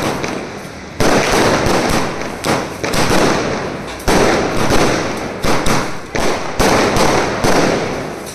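Fireworks going off: repeated sharp bangs, each dying away over about a second, coming closer together after the middle.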